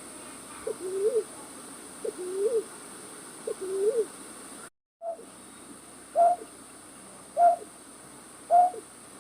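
Night-bird calls played as a trapping lure: a short low rising hoot repeated about once a second, then, after a brief dropout about halfway, a higher hoot about every 1.2 seconds.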